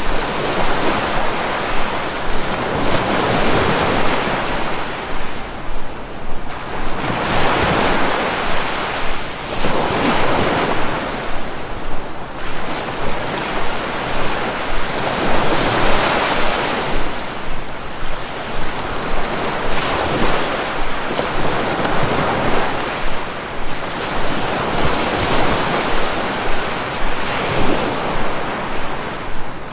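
Sea waves breaking and washing in, one after another, rising and falling every few seconds.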